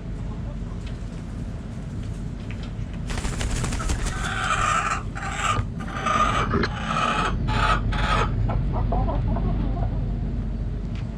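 Backyard chickens calling loudly in a broken run of clucks and crowing-like calls, from about three seconds in until about eight seconds, over a steady low background rumble.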